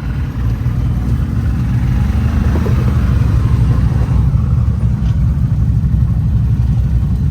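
Off-road vehicle engine running steadily, a loud low rumble.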